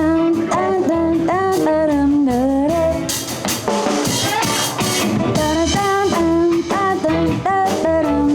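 Live blues band playing: drum kit and bass keep a steady beat under a lead melody line that bends up and down in pitch.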